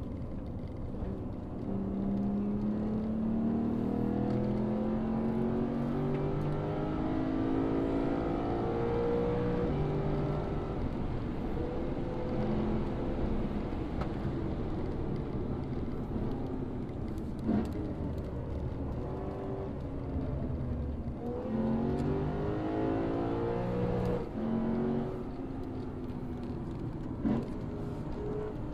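Lexus RC F's 5.0-litre V8 accelerating hard on a circuit, its pitch climbing through each gear and dropping at every upshift, in two runs of quick upshifts with steadier running between them. A couple of short sharp cracks stand out, once past the middle and again near the end.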